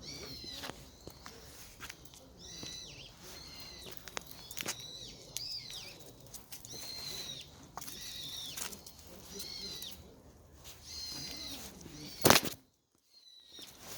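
Small birds chirping, short high arched calls repeating about once a second. About twelve seconds in there is one loud sharp crack, and then the sound cuts out for about a second.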